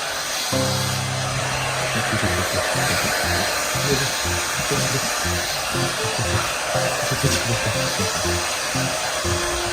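Pet hair dryer blowing steadily, a continuous airy hiss, with background music's low notes underneath.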